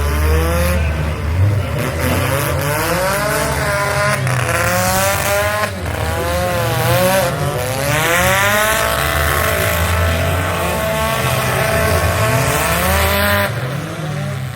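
Several demolition derby cars' engines revving up and down together over a heavy low rumble, their pitches rising and falling as they drive.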